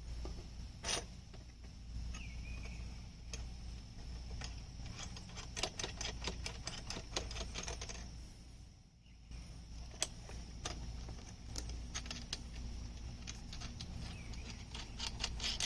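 Small metal hardware being handled: nuts and clips clicking and tapping irregularly against U-bolts and the mill's aluminium frame as they are fitted by hand, over a steady low hum.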